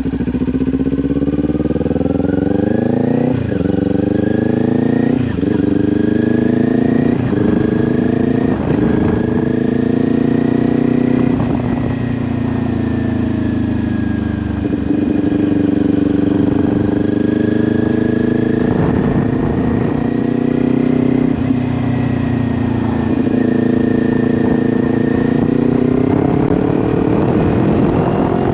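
Kawasaki Ninja 400's parallel-twin engine breathing through an SC Project aftermarket exhaust. It accelerates hard with four quick upshifts in the first nine seconds, each a climbing engine note that drops sharply at the shift, then holds a steady cruising pitch with a couple of brief dips. The note climbs again near the end.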